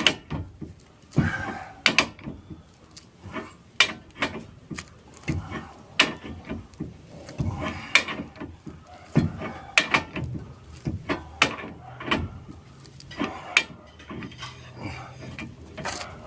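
Irregular metallic clanks and knocks, a few a second, from working a heavy hub puller on a van's rear wheel hub whose bearing has seized and will not come off.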